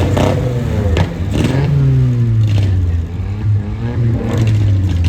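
A car engine being revved several times on the spot, its pitch climbing and falling with each rev, with a few sharp cracks near the start.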